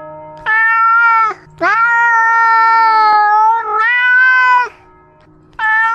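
Domestic cat meowing loudly, picked up right under its chin by the camera it wears: a series of long, drawn-out meows, one held for about three seconds, and another starting near the end.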